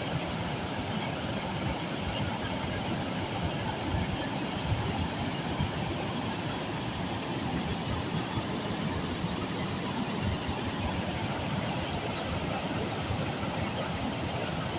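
Steady roar of a waterfall, running high with its water level swollen by continuous rain.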